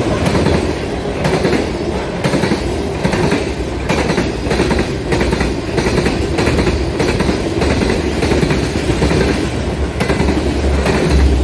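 Freight train of covered hoppers and tank cars rolling past close by: a steady rumble of steel wheels with repeated clicks as the wheels pass over the rails, the low rumble growing stronger near the end.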